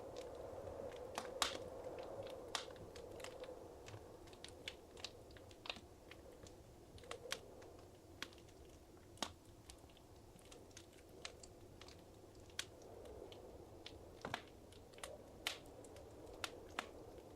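Wood fire crackling in a fireplace: irregular sharp pops and snaps, a few a second, over a soft low rush of burning.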